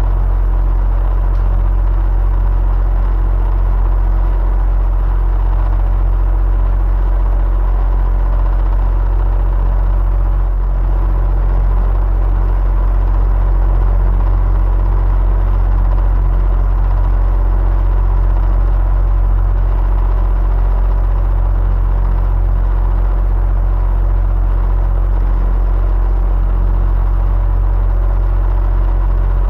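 Electric fan running steadily: a continuous low rumble and whoosh of moving air, with a faint motor hum, no change throughout.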